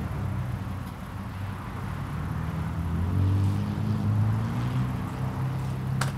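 A motor vehicle's engine running nearby, a low hum that rises slightly in pitch partway through. A single sharp click comes near the end.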